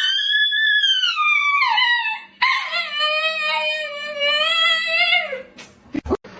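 A dog howling: two long, drawn-out howls, the first high and falling in pitch, the second lower and held steady before dropping at its end. A couple of short knocks follow near the end.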